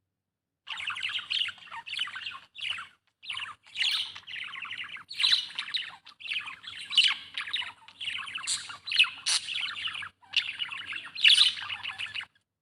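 Budgerigar chirping and chattering in a fast, busy run of short calls with brief pauses. It starts about half a second in and stops just before the end.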